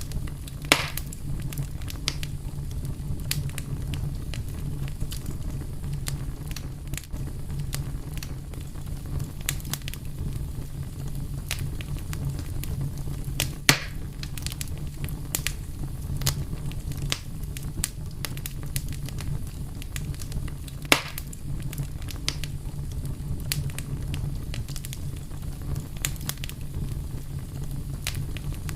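Fire crackling: a steady low rumble of flame under frequent small crackles, with three louder pops about a second in, midway through, and about two-thirds of the way through.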